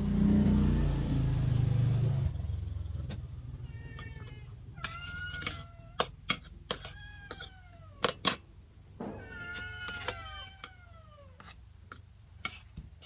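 Cats meowing again and again, each meow sliding down in pitch, with overlapping calls from more than one cat near the end. A loud low rumble fades out over the first two seconds, and a few sharp clicks sound among the meows.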